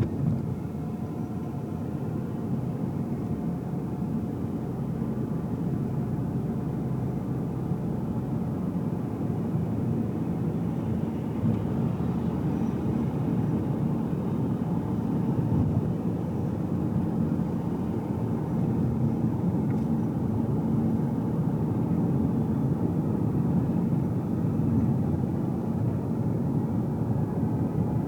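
Road and engine noise heard inside a moving car's cabin: a steady low rumble that grows slightly louder over the stretch.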